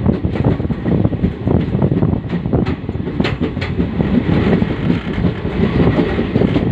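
Passenger train crossing a river bridge, heard from on board: a steady rumble with rapid clattering of the wheels on the track.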